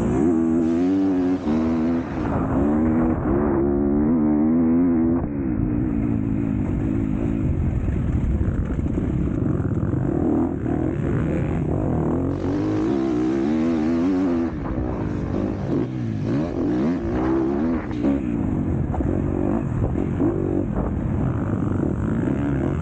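Motocross motorcycle engine at race speed, its pitch rising and falling again and again as the throttle is opened and closed and the gears change.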